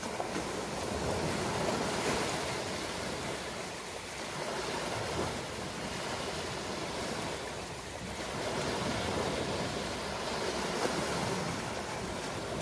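Ocean waves: a steady rush of surf that swells and eases gently every few seconds.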